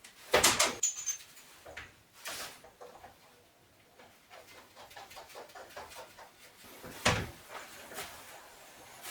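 Knocks and clanks of metal parts being handled, with a loud clatter about half a second in and another about seven seconds in, and a run of light, quick clicks in between.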